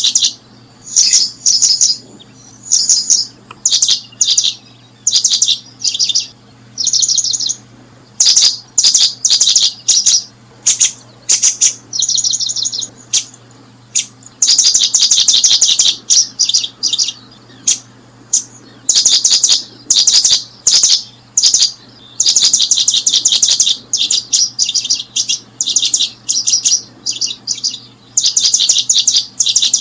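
Bird chirping in quick, high-pitched bursts repeated over and over with short pauses, each burst made of rapid notes.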